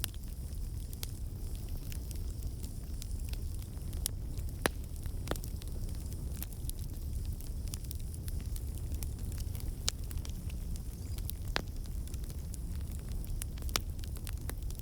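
Campfire burning: a steady low rumble with irregular crackles and sharp pops of burning wood.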